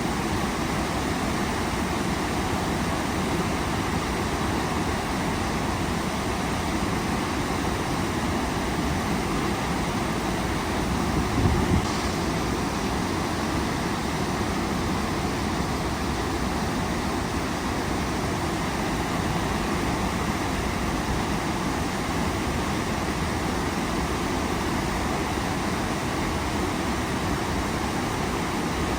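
Waterfall rushing as a steady, even roar of falling water. About a third of the way in there is a brief low thump.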